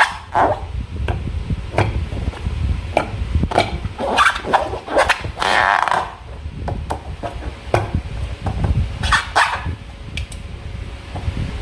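Slime being worked by hand: irregular sticky clicks and pops, with a few longer squelchy bursts.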